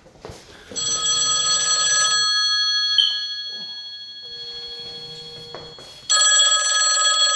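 Telephone ringing with a trilling bell-style ring, twice: a ring of about a second and a half, a pause, then a second ring near the end.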